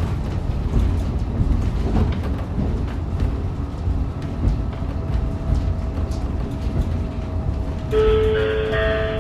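Running sound heard inside a railcar on the move: a steady low rumble of wheels on rail with light clicks over the rail joints. A faint steady tone comes in about five seconds in, and near the end several louder steady tones join it.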